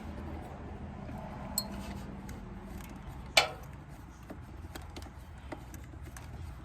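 Small metal engine parts and tools handled during carburetor reassembly: light scattered ticks over a low hum, with one sharp metallic clink about halfway through.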